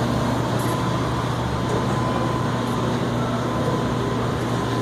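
Brush-type potato washing machine running steadily: a constant low mechanical hum with a thin, steady higher tone.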